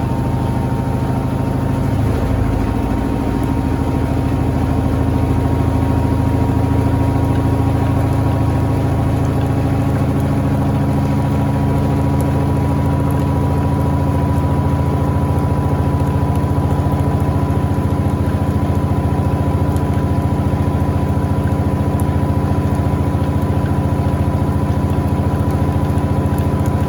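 Electrolux LTA15 top-loading washing machine running, its motor giving a loud, steady hum with a faint steady whine. The hum rises slightly about two seconds in and then holds level.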